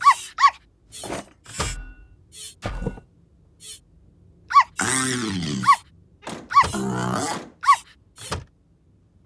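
Cartoon sound effects: a run of short thunks and knocks mixed with quick pitched blips, and two longer sliding, falling-pitch effects about five and seven seconds in.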